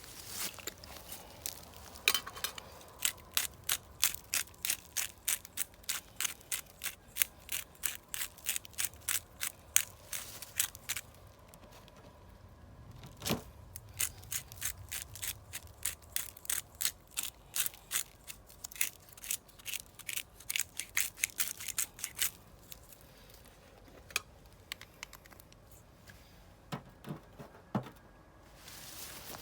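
Rapid rhythmic scraping strokes, about three a second, in two long runs with a short pause between, then a few scattered knocks near the end.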